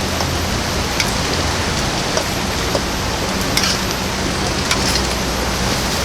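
Steady heavy rain, with louder single drops striking a hard surface now and then.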